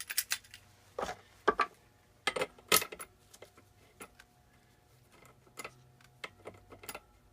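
Metal hand tools clinking and clanking as they are picked up and handled, a cluster of sharp knocks in the first three seconds and then lighter scattered ticks.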